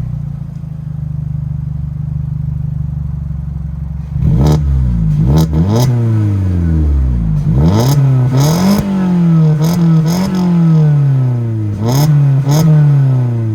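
Volkswagen engine, fully warmed up, idling steadily through a new twin-pipe R32-style exhaust, then blipped in a series of quick revs from about four seconds in, each rev rising and falling back, with short sharp cracks among them.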